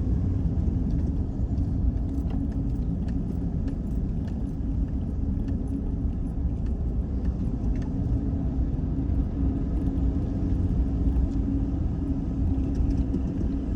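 Car driving on a road, heard from inside the cabin: a steady low rumble of engine and tyres, with faint light clicks and rattles.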